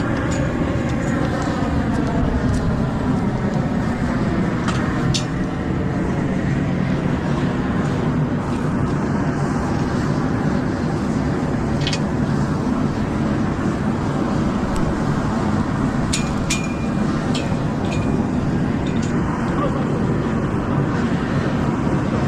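An engine running steadily, its pitch shifting over the first few seconds, with a few sharp clicks scattered through.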